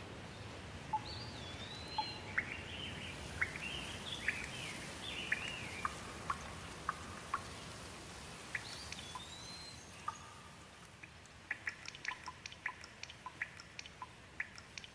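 Rain falling steadily as a soft hiss, with a bird singing warbling phrases of rising and falling whistles over it. In the last few seconds come many quick, sharp ticks.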